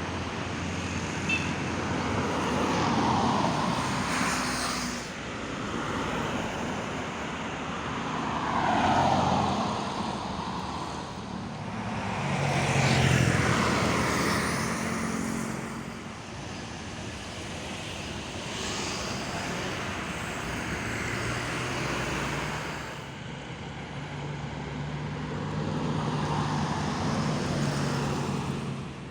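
Road traffic: vehicles driving past one after another, about five passes that each swell and fade away.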